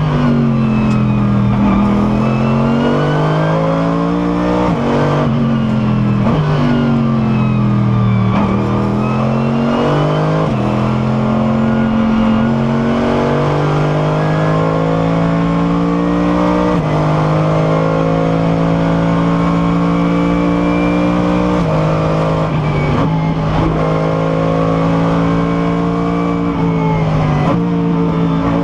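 Mercedes SLS AMG GT3's V8 engine heard from inside the car at racing speed. The engine note climbs and falls back through several gear changes in the first half, then holds a high, fairly steady pitch with a few sudden steps.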